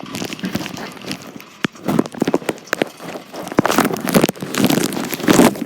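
Heavy rain pattering on the plastic bag wrapped around the phone: a dense, irregular run of sharp taps over a steady hiss.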